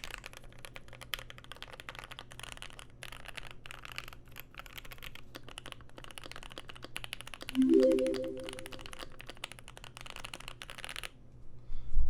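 Fast continuous typing on a Keychron Q1 mechanical keyboard with lubed, filmed Pinoko linear switches on an aluminium plate, modded with tape, Poly-Fil and PE foam; the typing stops about a second before the end. About two-thirds of the way in, a short rising chime-like tone sounds over the typing.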